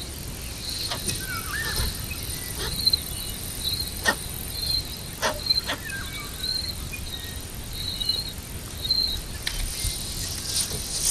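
Insects chirping: short high chirps repeating about once every second, over a steady high-pitched insect whine, with a few sharp clicks.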